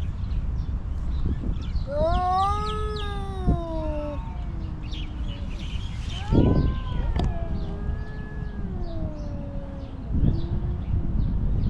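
A stray cat meowing: two long, drawn-out meows that rise and then fall in pitch, and a short one near the end, over a steady low rumble.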